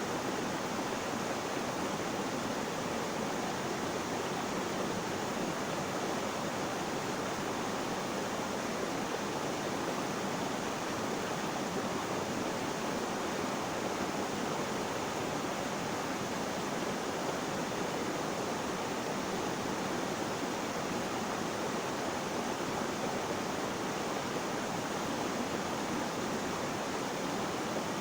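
Flowing water making a steady, even rushing noise that does not change.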